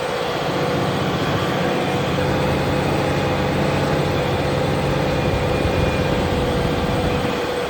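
Large Fendt tractor's diesel engine running steadily under load while pulling a plough, with a steady whine above the engine note.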